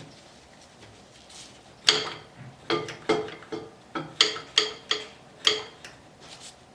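A run of about ten sharp metallic taps and clinks with a short ringing tone, irregularly spaced over three or four seconds, made by metal parts of a motorcycle brake caliper being knocked and fitted together during reassembly.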